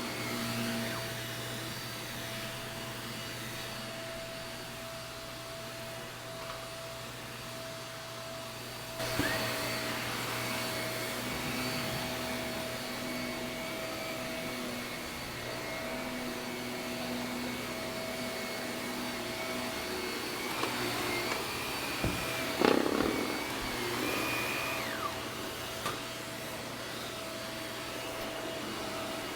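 Shark vacuum cleaner running steadily on carpet. Its sound brightens about a third of the way in, and there are a few sharp knocks about two-thirds of the way through.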